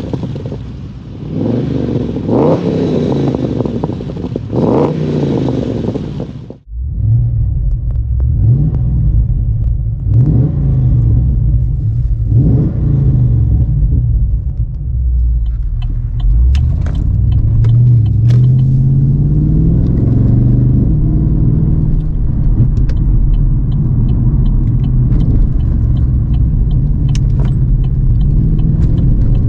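Walkinshaw W375's tuned 6.2-litre LS3 V8 revved three times through its aftermarket exhaust, each blip rising and falling. After a sudden cut, the same V8 heard from inside the cabin while driving, a low steady drone that rises and falls in pitch as the car accelerates and shifts.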